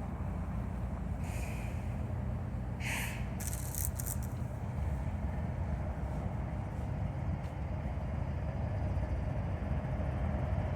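Norfolk Southern diesel freight locomotives rumbling low and steady, growing slowly louder as the train gets under way. There are a few short hisses about a second and about three seconds in.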